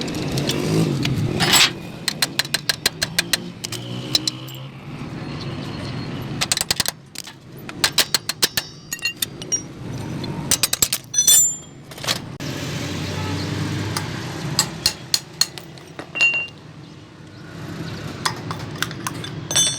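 Metal tools clinking on metal parts: quick runs of sharp taps and clicks with a few louder knocks, over a low steady rumble.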